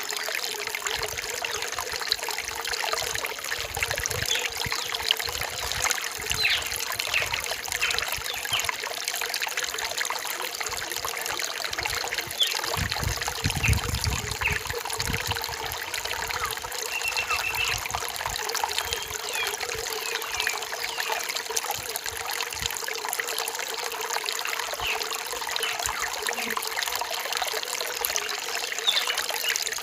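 Rainforest stream trickling and babbling over stones in a steady wash, with a brief deeper gurgle about halfway through. Faint short bird chirps sound now and then above the water.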